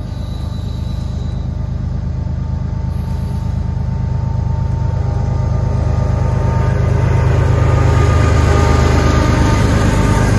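Diesel locomotives at the head of a freight train approaching and passing: a deep engine rumble that grows steadily louder, with rising wheel and rail noise as the lead units come alongside near the end.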